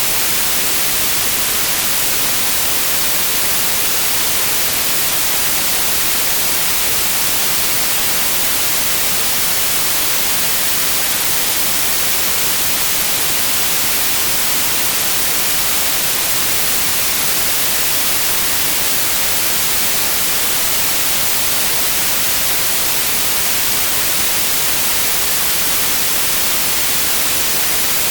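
Continuous white noise: a steady, unvarying hiss, brightest in the high range, with no change in level.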